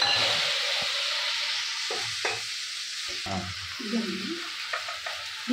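Freshly ground wet masala paste sizzling in hot oil in a metal kadhai, the sizzle loudest at first and dying down over a few seconds as the paste is stirred, with a few knocks of the spatula against the pan.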